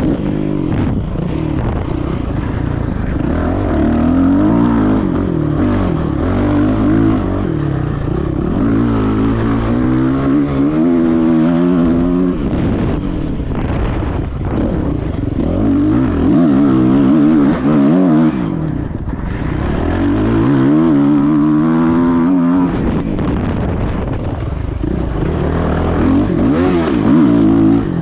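Motocross bike engine heard from the rider's own bike, revving up and dropping back again and again as it accelerates and shifts around the track.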